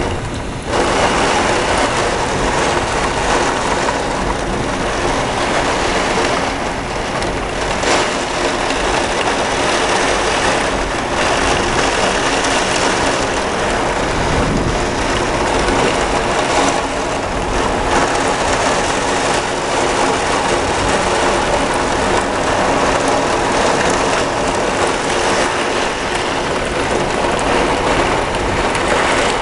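Heavy thunderstorm rain and strong wind, a loud steady rush.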